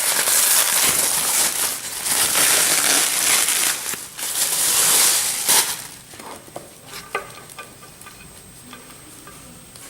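Melted butter sizzling and crackling in a frying pan, loud for the first five or six seconds, then dropping to a faint crackle with a few light clicks.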